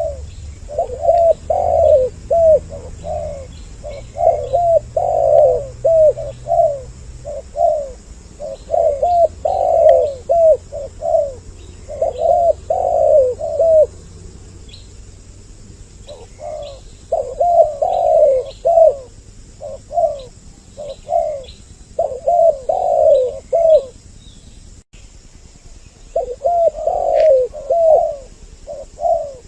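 Spotted doves (tekukur) cooing in dense, repeated phrases from more than one bird, as on a dove trapping lure recording, with two short pauses in the calling.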